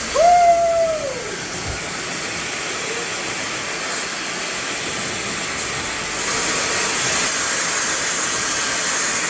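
Hair dryer blowing air with a steady hiss that gets louder about six seconds in. A short tone falling in pitch sounds near the start.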